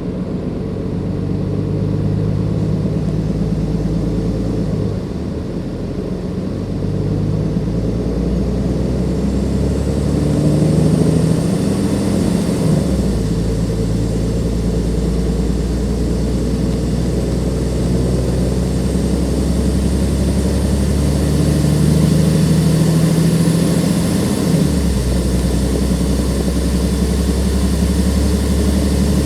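Dennis Enviro 500 double-decker bus's Cummins ISLe 340 diesel engine pulling under load. Its note climbs and then drops abruptly about 5, 13 and 25 seconds in as the automatic gearbox changes up. A high turbocharger whistle sits over it.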